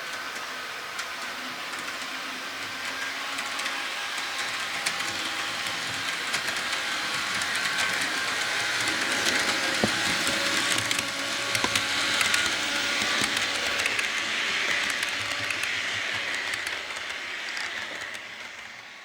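HO scale model train pulling 72-foot modern refrigerator boxcars past on the layout: a steady rolling hum with many small clicks of wheels over the track. It grows louder toward the middle as the train comes by, then fades near the end.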